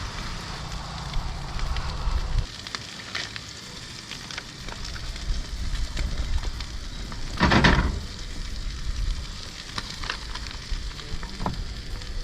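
Ribeye steak sizzling in a hot skillet, with scattered clicks and one short, louder burst a little past halfway.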